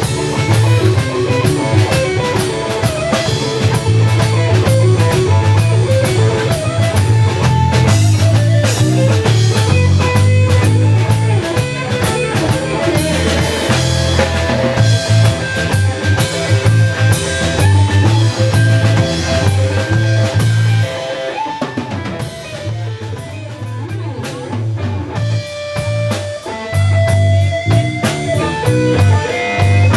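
Live Texas blues-rock band playing an instrumental stretch on guitar and drum kit. The band eases back and gets quieter about two-thirds of the way through, then picks up again near the end.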